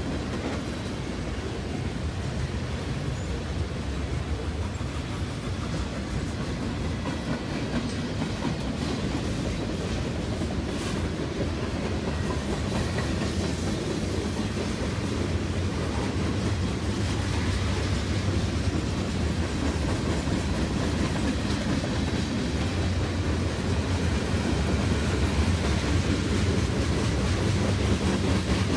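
Freight train cars rolling past at trackside: a steady rumble of steel wheels on the rails, getting a little louder in the second half.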